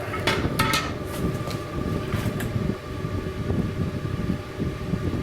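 Metal clanks as a wood stove's damper is closed, a couple of knocks near the start and lighter ones about two seconds in, over a steady low rumble.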